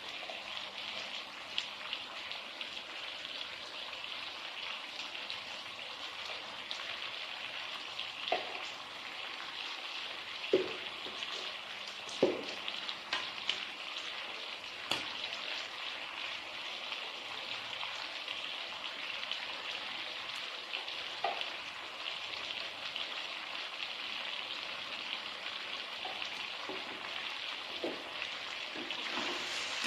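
Food sizzling in a hot frying pan, a steady crackling hiss, with a few sharp clicks of a utensil against the pan now and then. The sizzle gets louder near the end.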